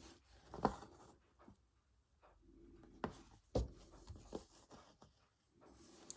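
Faint scratching and small ticks of a needle and thread being worked through fabric by hand, with a few sharper clicks.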